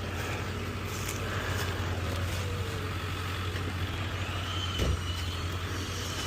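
Heavy diesel machinery engine running steadily with a low drone, and a single knock about five seconds in.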